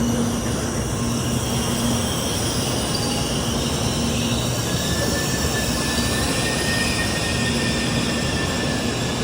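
Shinkansen N700S Supreme bullet train moving at the platform: a steady rush of wheels and running gear, with a thin high tone setting in about halfway through.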